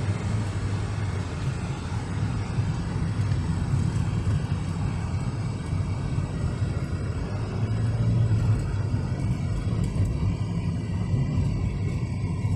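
Engine and road rumble inside the cabin of a moving Volkswagen Santana GTS wagon: a steady low drone with tyre noise, swelling a little around eight seconds in.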